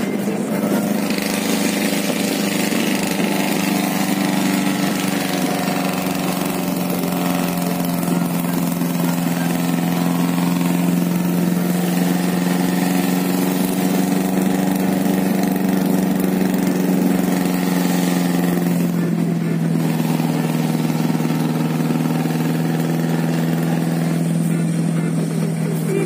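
Car engine and road noise inside the cabin while driving, a steady drone that drops a little in pitch about 19 seconds in as the car slows.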